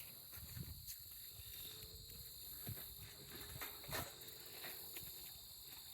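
Steady high-pitched chorus of crickets trilling, with a few soft knocks scattered through it, the loudest about four seconds in.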